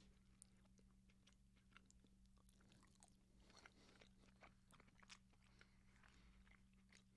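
Faint close chewing of a dolma, a stuffed grape leaf of rice and beef dipped in lemon and olive oil marinade, with soft scattered wet mouth clicks over a low steady electrical hum.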